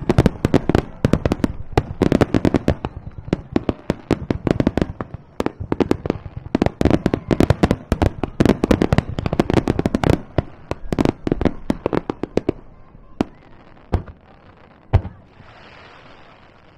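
Aerial fireworks bursting in a rapid barrage, dozens of sharp bangs in quick succession. About three-quarters of the way through it thins to a few single booms and a short crackling hiss, then quiets down.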